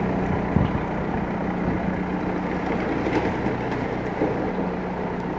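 A motor vehicle's engine running steadily nearby, a continuous low hum.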